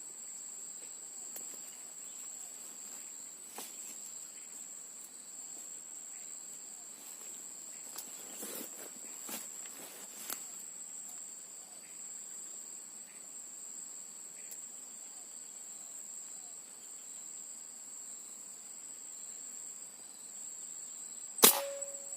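Steady high-pitched drone of insects, then near the end a single sharp air-rifle shot, by far the loudest sound, that brings down a second green pigeon.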